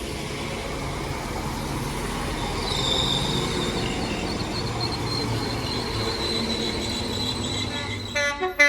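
West Midlands Railway Class 196 diesel multiple unit running past on the track, a steady rumble with a high, steady wheel squeal from about three seconds in. Near the end a train horn gives short toots.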